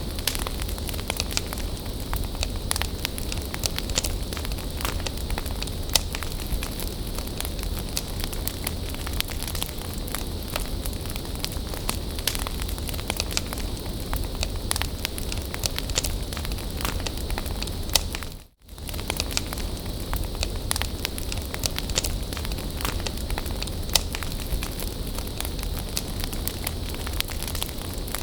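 Bonfire of burning wood crackling steadily, a soft hiss with frequent sharp pops and snaps. About two-thirds of the way through, the sound cuts out for a split second and then carries on unchanged.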